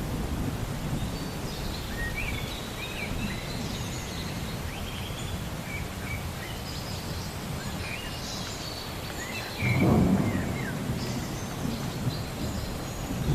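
Thunderstorm ambience: a low steady rumble of thunder and rain, with birds chirping throughout and a louder roll of thunder near the end.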